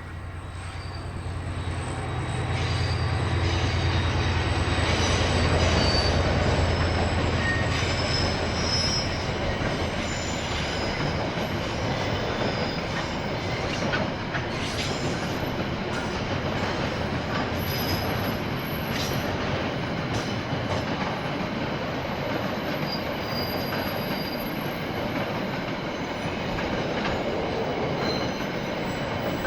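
A KiwiRail diesel freight train passing: the locomotive's engine hum builds and peaks about six seconds in, then fades as the wagons roll by with clicking wheels and thin, high wheel squeal.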